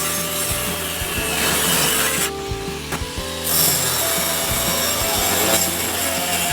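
Continuous rasping, like sawing or filing, that stops for about a second a little over two seconds in and then resumes, over background music.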